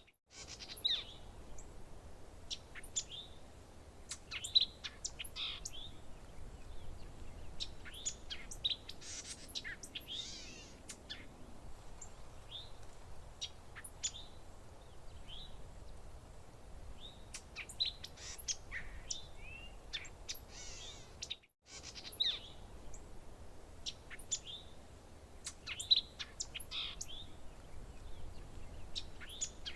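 Several songbirds chirping and calling, short overlapping notes and quick up-and-down sweeps, over a faint steady background hiss. The sound cuts out for a split second twice, near the start and about two-thirds through.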